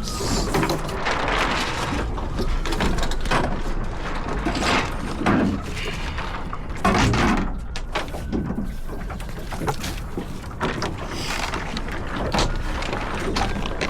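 Wind buffeting the microphone and water splashing along a small sailboat's hull as it sails. Irregular knocks and sloshes come through the rush.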